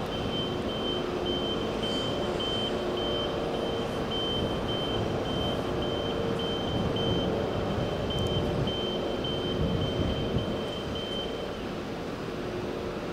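A diesel train's engine running at a station platform, with a rapid high beeping, about two or three beeps a second, that stops near the end.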